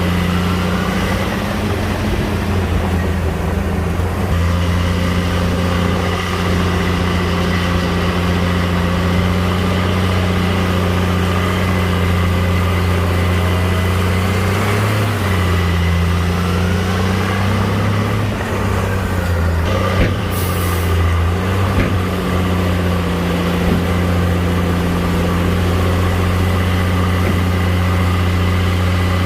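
Heavy earthmoving machine's diesel engine running steadily under load, its speed sagging and recovering a couple of times midway. A short hiss of air about two-thirds of the way through.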